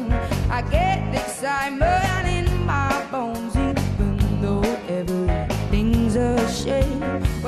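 A live band playing a soul-pop song, with sung vocal lines gliding over a steady drum beat.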